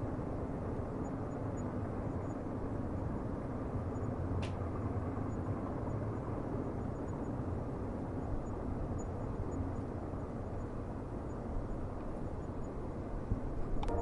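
Steady low rumble of a distant train, with a single sharp click about four seconds in and another near the end.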